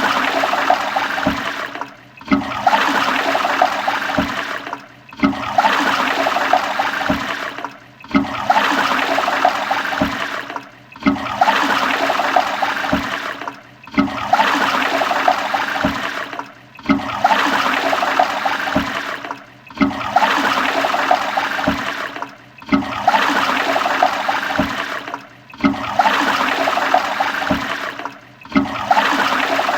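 Toilet flushing: rushing, gurgling water that cuts out briefly and starts again about every three seconds, the same flush repeating over and over.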